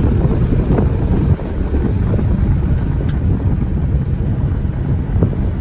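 Steady low rumbling noise, with a few faint ticks.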